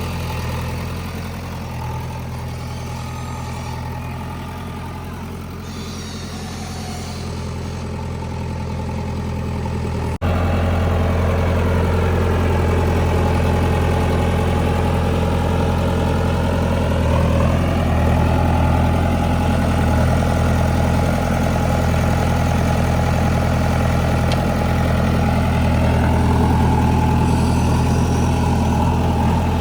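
JCB 3DX backhoe loader's diesel engine running steadily, stepping up abruptly to a louder, heavier note about ten seconds in. A higher whine dips and then rises again a few seconds later.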